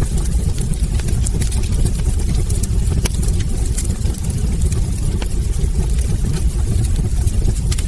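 Wood fire burning in a fireplace: a steady low rumble of the flames with many small, sharp crackles and pops at irregular intervals.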